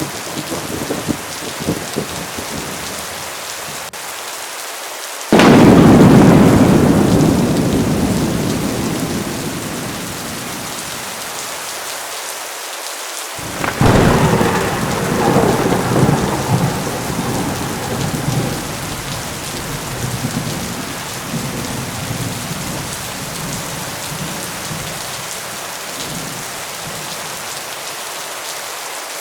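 Heavy rain falling steadily through a thunderstorm, with two loud claps of thunder. The first comes about five seconds in and the second about thirteen seconds in, each starting suddenly and rumbling away over several seconds.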